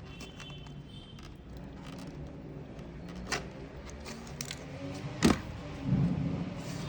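A small screwdriver prying at a Bluetooth speaker's plastic cover: faint scraping and handling with a few sharp clicks, the loudest one late on.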